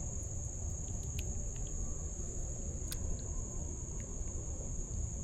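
Insects, crickets or similar, trilling steadily in one continuous high-pitched tone over a low steady outdoor rumble.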